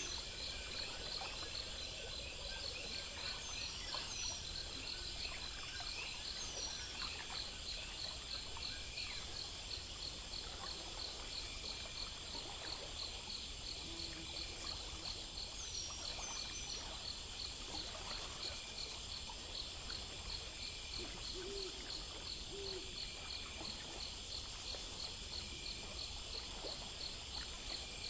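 Night-time nature ambience: a steady chorus of insects trilling, with a fast even pulsing and a continuous high buzz. A few short low hoots sound about halfway through and twice more later, with a few faint high chirps.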